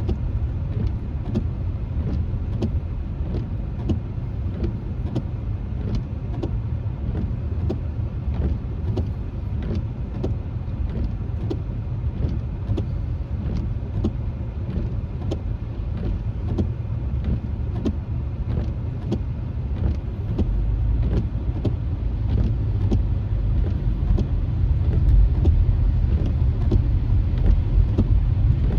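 Car cabin noise while driving on wet road: a steady low tyre and road rumble that grows louder near the end. Scattered sharp ticks from raindrops striking the windshield run through it.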